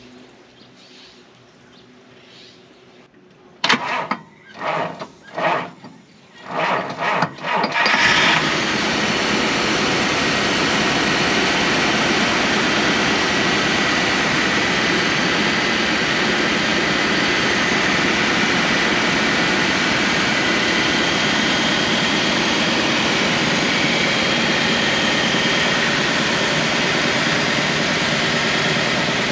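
1965 Bentley S3's 6.2-litre V8 cold-started: the starter cranks for about four seconds with the engine firing unevenly, then it catches about eight seconds in and settles into a steady idle.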